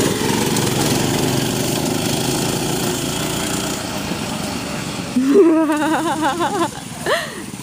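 Small 6.5 hp single-cylinder mini bike engines running steadily during a race, the drone slowly fading. About five seconds in, a louder wavering voice-like call rises over it for a second or so, followed by a short rising-falling whoop.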